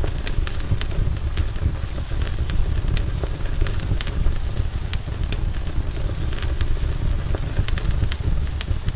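Wood campfire burning: irregular crackles and pops of the burning wood, several a second, over a steady low rumble.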